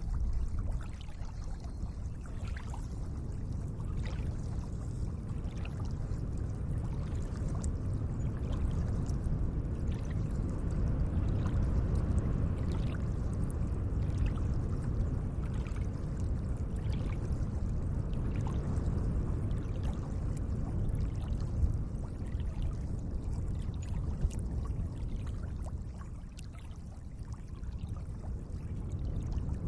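Gentle, steady lake water lapping and trickling, with many small faint splashes. It eases a little near the end.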